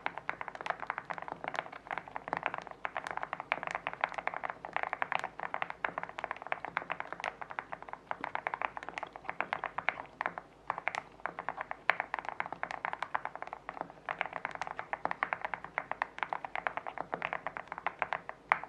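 Fast typing on a mechanical keyboard with lubed Ice King linear switches, their stem tips trimmed: a dense run of low-pitched key clacks, pausing briefly about halfway.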